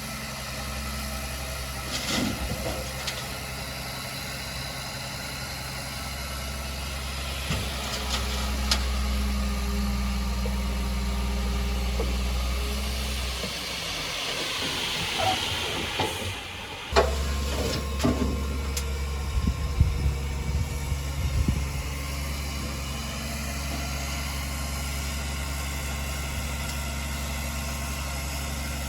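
Heavy diesel engine of earthmoving equipment running steadily at idle, with a hiss near the middle and a sharp knock followed by a few seconds of metallic clanks.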